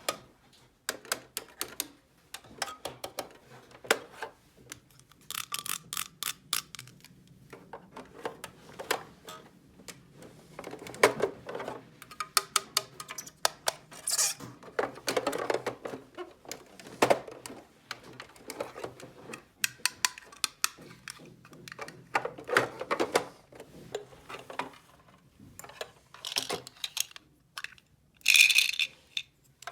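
Small hard plastic toy pieces handled and set down: irregular clicks and taps, with a few short rustles.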